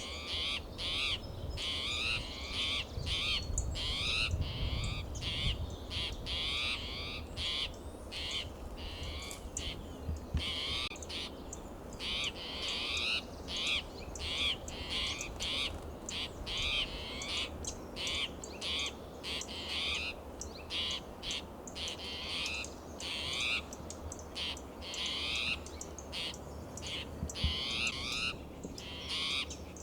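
Spotted towhee giving its alarm call: short calls repeated over and over without a break, the sign of an agitated bird.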